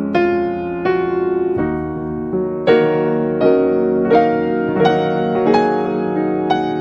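Background piano music: a slow, gentle melody of struck notes, a new note roughly every two-thirds of a second, each ringing on under the next.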